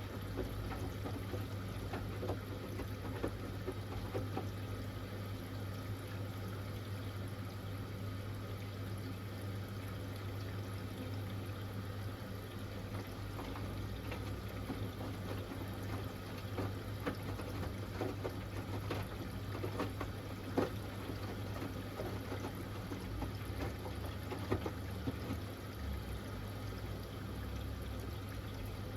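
Hoover Axi 10kg front-loading washing machine filling with water early in its Rapid 30' programme: water running into the drum over a steady low hum, with faint scattered ticks.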